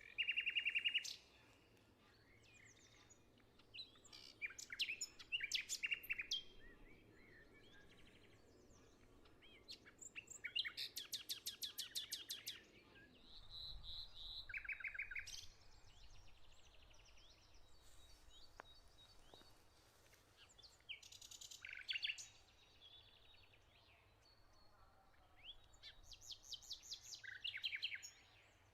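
Songbirds singing: short phrases of rapid, repeated trilled notes come every few seconds, over a faint steady background hiss.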